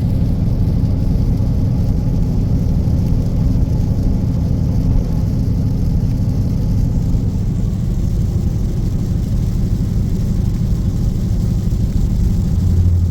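Steady low in-cabin drone of a Dodge Scat Pack cruising at highway speed on a wet road: engine, tyre and road noise blended together, swelling briefly near the end.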